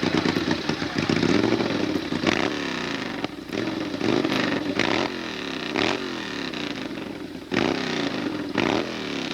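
Motorcycle engine revving hard, its pitch rising and falling again and again as the throttle is worked, with several sudden jumps in pitch.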